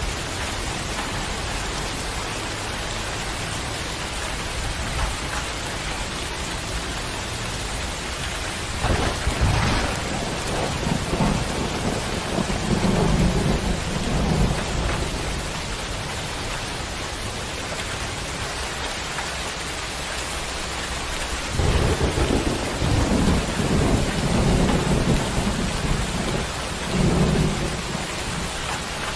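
Steady rain hiss with two long rolls of thunder rumbling over it, the first starting about nine seconds in and the second a little past twenty seconds, each lasting several seconds.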